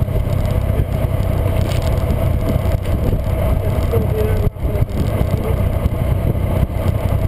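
Caterham 1.6's engine running steadily at low revs while the car moves slowly, heard from on board the open car. It drops out briefly about four and a half seconds in.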